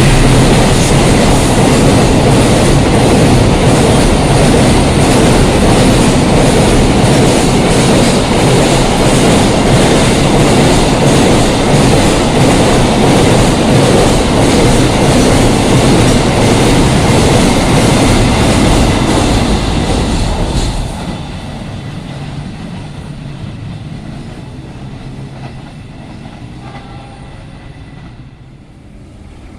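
Train passing at high speed at close range: loud rushing of the carriages with a quick clickety-clack of wheels over the rail joints. About twenty seconds in it drops off suddenly as the last carriage goes by, and the train fades away.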